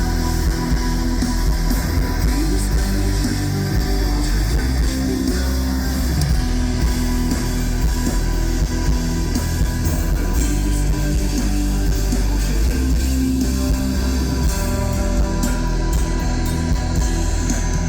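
Rock band playing live: a guitar-led instrumental passage with no vocals, over a steady, full low end.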